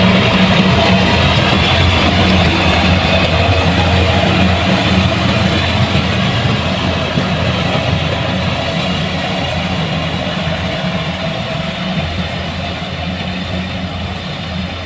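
Kubota rice combine harvester running steadily: an even engine hum under broad machine noise, slowly getting a little quieter.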